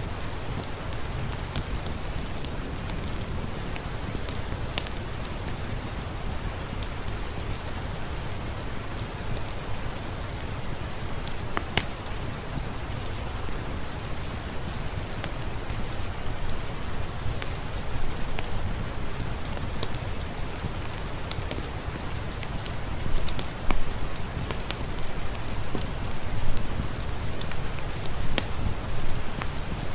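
Steady heavy rain falling, with scattered sharp clicks and pops throughout and a few louder swells in the second half.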